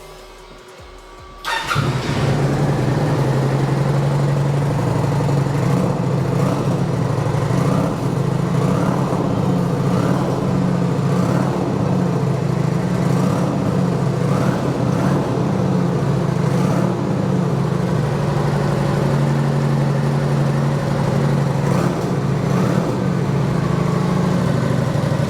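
2017 Kawasaki VN900 Custom's 903 cc V-twin engine, turned over on the electric starter and catching about a second and a half in, then idling steadily.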